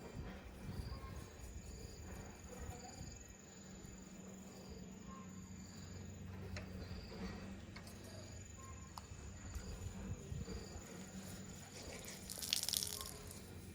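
Insects chirping: a short high chirp about once a second over a steady high-pitched trill, with a brief hiss about twelve and a half seconds in.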